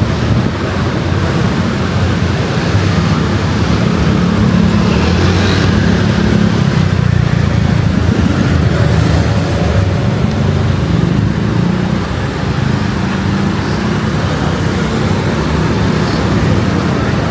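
Steady low rumble of strong wind buffeting the microphone, mixed with street traffic going by.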